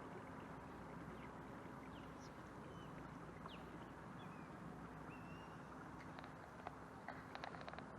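Canoe cruising under its motor: a steady low hum over a wash of noise, with scattered faint bird chirps and a quick run of sharp clicks near the end.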